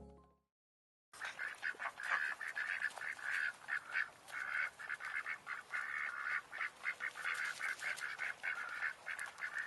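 Mallard ducks quacking in quick, overlapping calls, starting about a second in.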